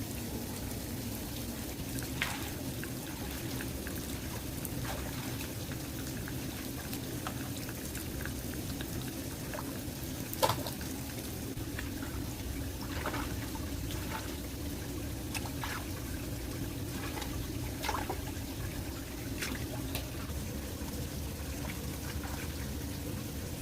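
Water running and trickling steadily, runoff after heavy rain. Scattered short splashes or knocks sound over it, the loudest about ten seconds in.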